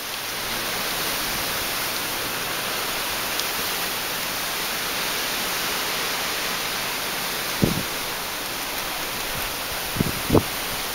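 Steady hiss of rain falling during a thunderstorm, with three short low thuds in the last few seconds.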